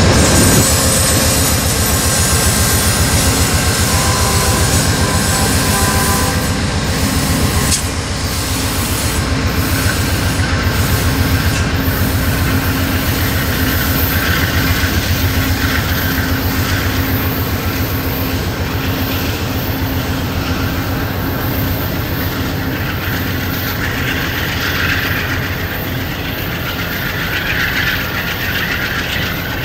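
Diesel locomotives and rail cars running on the track: a steady low rumble of engines and steel wheels on rail. A run of sharp clicks comes from the wheels between about six and twelve seconds in.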